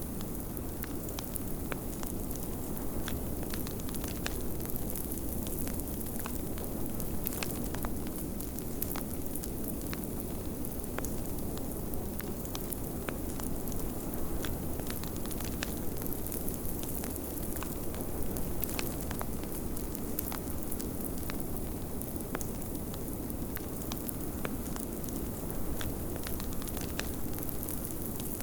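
Wood fire crackling in a fireplace, with frequent sharp pops and snaps over a steady low rush of snowstorm wind.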